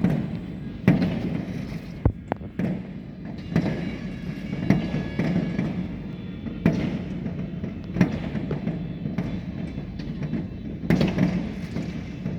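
Aerial fireworks going off in irregular sharp bangs, about ten over twelve seconds, each with a short echoing tail, over a continuous low din.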